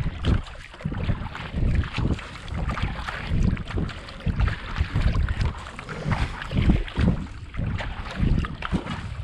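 Racing kayak paddle strokes at a steady pace, the blade catching and pulling through the water about one and a bit times a second, with wind buffeting the microphone.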